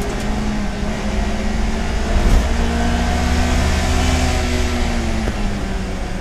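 Mazda MX-5 Cup race car's engine running hard under load at racing speed, with a short knock about two seconds in where the engine note steps up, then holding steady and easing slightly near the end.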